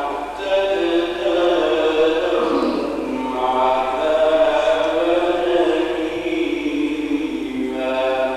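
Male reciter chanting the Quran in the ornamented mujawwad style, holding long, bending melodic notes. He sings two long phrases with a short breath between them about three seconds in.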